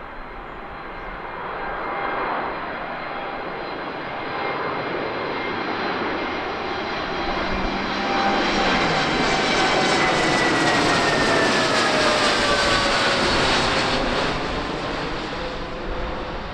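Airliner flying past the runway, its engine noise building to a peak and then easing off. As it goes by, several whining tones glide down in pitch.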